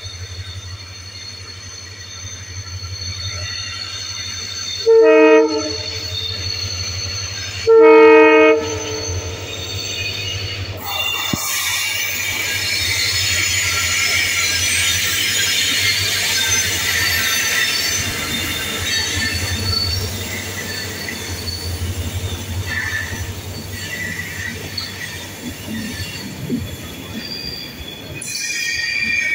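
Indian Railways diesel locomotive's horn sounds two short blasts about three seconds apart. Then the train passes: a steady low rumble of locomotive and coaches with high squealing from the wheels on the curved track.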